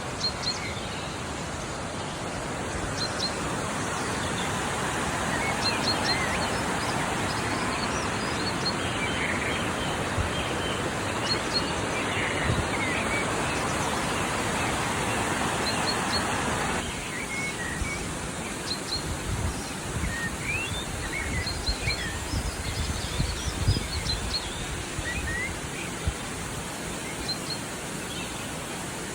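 Small birds chirping with many short high calls over a steady rushing background noise. The rushing noise drops abruptly about seventeen seconds in, after which the bird calls stand out more clearly over some low rumbles.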